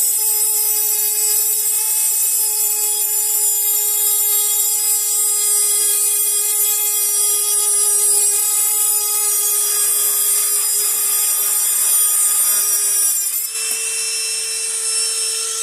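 High-speed rotary tool grinding metal: a steady high whine over a strong hiss. Near the end its pitch steps up a little and it gets quieter.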